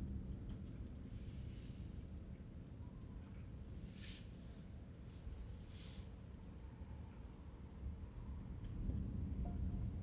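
Night ambience with crickets chirring steadily in a high, even band over a low rumble, with two brief soft rustles about four and six seconds in.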